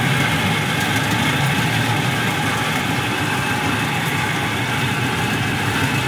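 Steady engine drone and running rumble of a small ride train, heard from an open passenger car.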